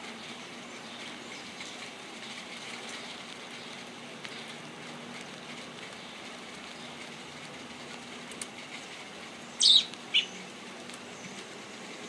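A small bird gives two short, sharp chirps about half a second apart near the end, each falling in pitch, over a steady low background hum.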